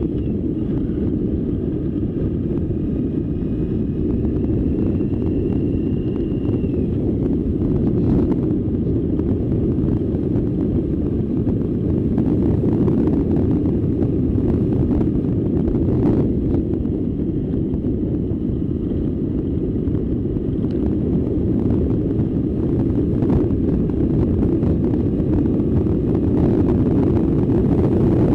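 Steady wind rush buffeting the microphone on a moving bike, a dense low rumble with no clear engine note. A faint thin whine fades out about a quarter of the way through.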